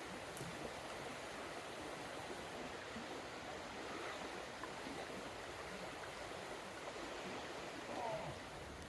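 Small mountain stream running over rocks, a steady rush of water. A short high note sounds near the end.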